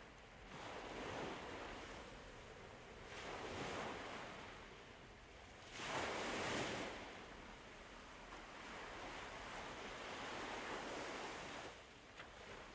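Ocean surf: waves washing in, a rushing sound that swells and falls back every few seconds, the biggest wave about six seconds in.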